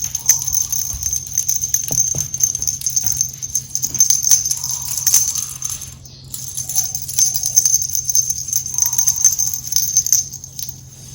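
Small bell jingling and rattling as a cat teaser toy is shaken, in two bouts with a short pause about six seconds in.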